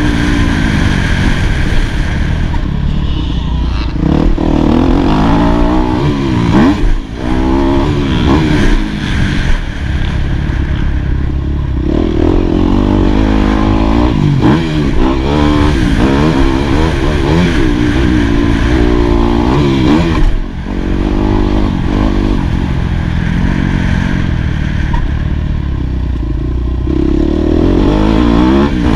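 2018 Yamaha YZ250F's four-stroke single-cylinder engine under hard riding, its pitch climbing and falling back again and again as the throttle is worked, with brief drops in level about seven and twenty seconds in.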